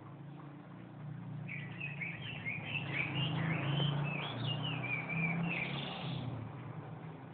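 A songbird singing a rapid, varied warbling song of quick high chirps and trills. The song starts about a second and a half in and stops near the end, over a steady low hum.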